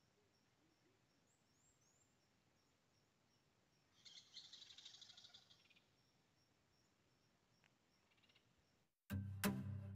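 A bird gives a rapid, chattering call lasting about two seconds near the middle, over faint outdoor ambience with a high note repeating about twice a second and a few short rising chirps. Music starts abruptly about nine seconds in.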